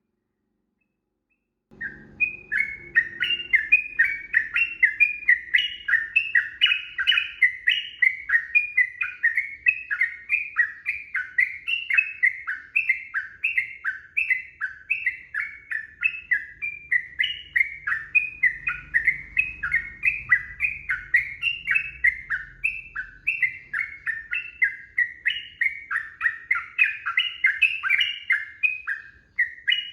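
Yellow-vented bulbul (trucukan) singing a long unbroken run of short, quick, up-and-down notes, starting about two seconds in.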